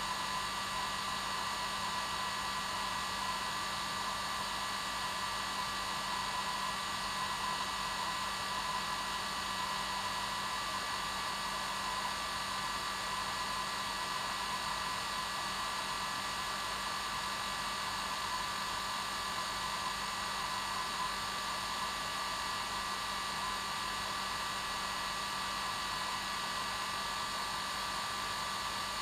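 Hair dryer running continuously at a steady speed: an even blowing hiss with a steady motor whine.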